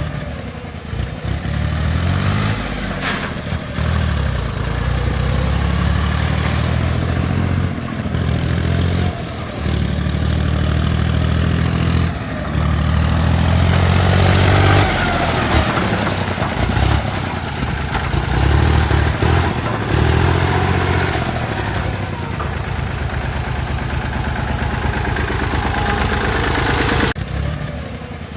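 John Deere 5310 tractor's diesel engine running, its note rising and falling several times with brief dips in level.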